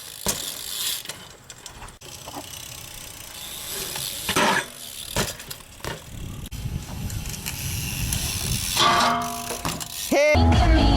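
Knocks and rolling noise of BMX bikes riding ramps, with sharp landing clacks here and there. About ten seconds in, loud music with heavy bass cuts in.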